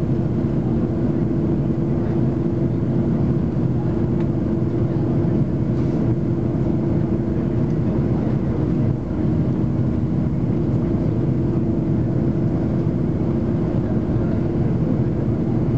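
Steady cabin drone inside an Airbus A330-300 airliner: engine and airflow noise with a constant low hum.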